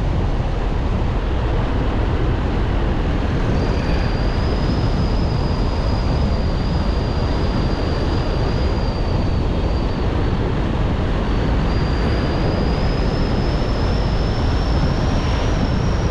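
Car driving along a road: a steady low rumble of road and wind noise. A thin high whine comes in about three and a half seconds in, drops out briefly just after the middle, then returns, slowly rising in pitch.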